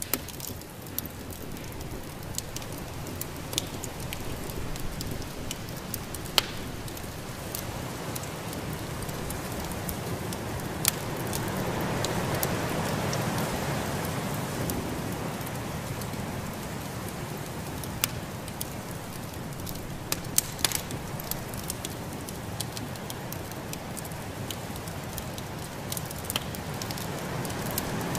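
Fireplace fire crackling, with scattered sharp pops, over the steady rushing of a snowstorm wind that swells for a few seconds near the middle.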